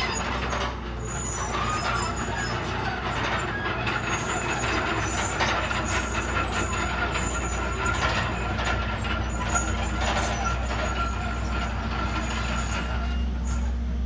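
Bulldozer's diesel engine running steadily, with clattering over it.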